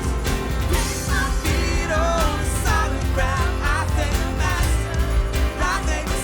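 A live worship band playing a loud, steady full-band passage: drums keeping a regular beat under a steady bass, with a wavering, bending melodic line on top.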